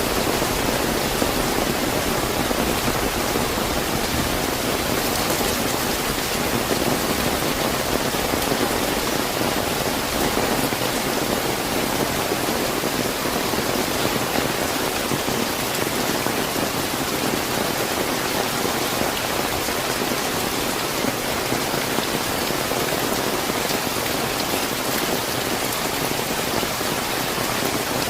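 Steady, fairly heavy rain falling and pattering on surfaces, an even dense hiss without thunder.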